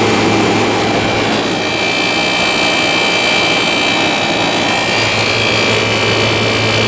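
Vintage air conditioner running: a steady low compressor hum under the rush of its fans, with a high whine that gets stronger about a second and a half in.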